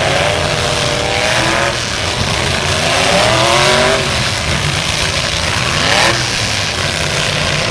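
Full-size pickup truck engines revving hard in a demolition derby, their pitch climbing and falling several times over the din of other engines, with a sharper, louder moment about six seconds in.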